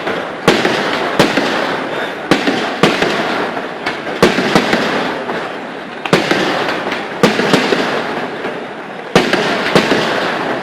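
Night fireworks display: sharp bangs of bursting shells about once a second or so, over a continuous dense crackle.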